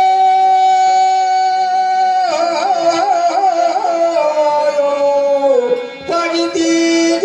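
Marathi devotional gan sung with instrumental accompaniment: a long held high note, then quick wavering ornaments that slide down in pitch, and a fresh held note near the end.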